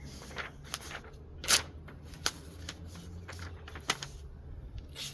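Serrated blade of a Canary cardboard knife snagging and ripping through a sheet of paper rather than slicing it, an irregular series of crackly paper rips and rustles with the loudest about a second and a half in.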